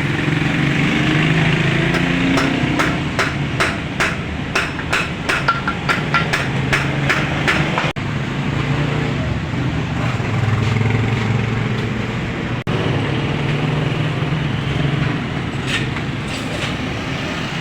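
A run of sharp knocks, about two or three a second for around five seconds, a few of them ringing briefly, over a steady low rumble.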